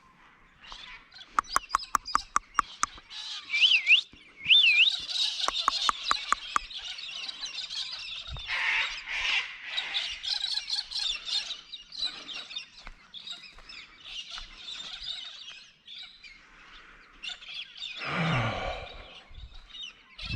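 A flock of birds calling together, with harsh squawks and chatter typical of cockatoos and galahs mixed with higher chirps and whistled glides. A rapid run of sharp clicks comes about a second in, and a lower, deeper call near the end.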